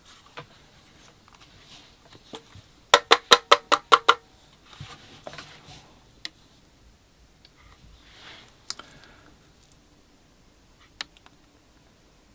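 Handling noises while unboxing equipment: soft rustles and scattered clicks, with a quick run of about eight loud clicks a few seconds in.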